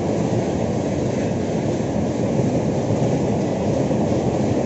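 Passenger coaches of a high-speed express train running past, making a steady, loud noise of wheels on rails with no let-up.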